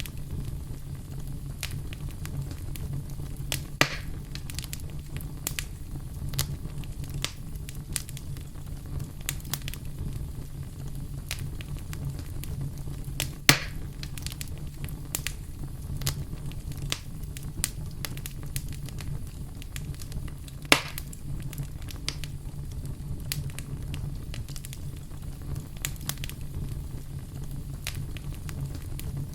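Campfire burning: wood crackling in many small pops over a steady low rumble, with three louder pops spread through.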